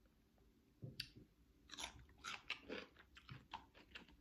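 A bite into a crisp raw cucumber spear about a second in, followed by crunchy chewing with many small crackling strikes.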